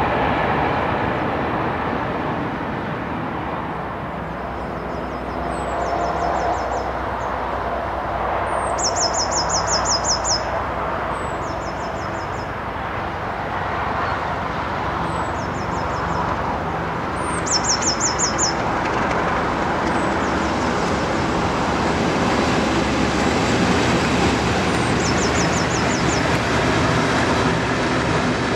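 A train running with a steady rumble throughout. Over it, a small bird sings about six short, rapid trills.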